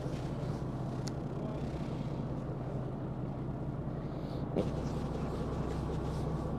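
Fishing boat's engine running steadily with a low hum, and a single short knock about four and a half seconds in.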